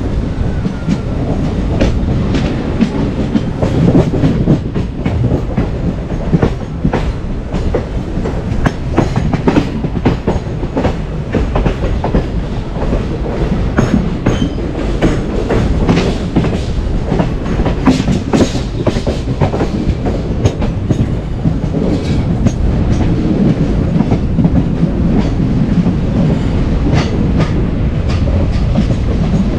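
Passenger train of ICF coaches running steadily, heard from on board: a continuous low rumble with the wheels clattering over rail joints, and a denser run of clacks around the middle.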